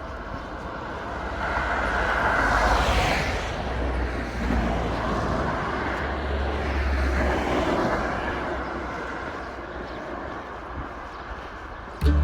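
Motor vehicles passing, one going by about three seconds in and another about seven seconds in, over a steady low rumble.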